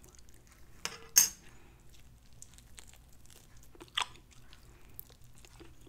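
Close-up eating sounds of a jerk turkey wing being bitten and chewed, with a few short, crisp, wet bites and smacks: the loudest about a second in, another near four seconds.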